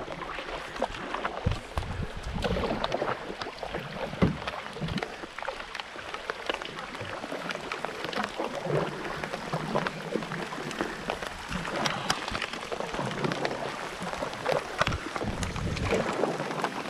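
Rain falling on the lake and on the canoe, a steady hiss full of small drop ticks, with the splashes of paddle strokes and a few louder knocks as the canoe is paddled along.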